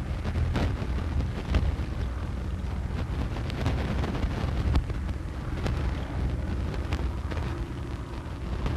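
Racing motorboat Miss Britain I's engine running at speed, a steady low drone under wind and water rush, with scattered sharp clicks and crackles.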